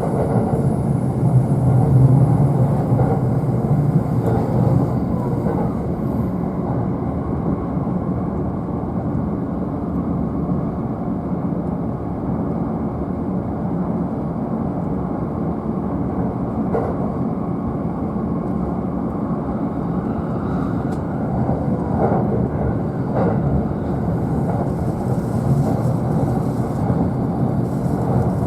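E531-series electric train running at speed, heard inside the upper deck of a bilevel car: a steady low rumble of wheels on rail. A few faint clicks from rail joints come in the second half.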